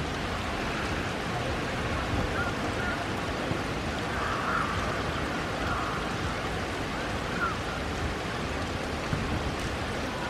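Steady heavy rain falling on wet pavement and grass, an even hiss of water.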